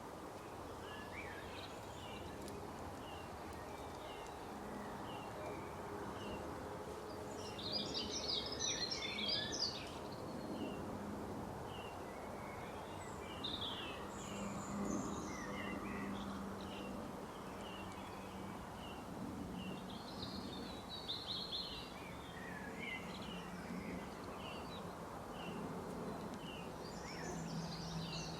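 Songbirds calling in a forest: a short chirp repeated about once a second, with bursts of fast twittering song about a quarter of the way in, about two-thirds in, and near the end, over a low steady hum.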